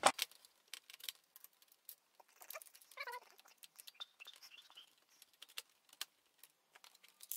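Small, irregular clicks, taps and scrapes of screws and plastic and metal parts being handled and worked loose inside a CD player's drive mechanism, with a brief squeak about three seconds in.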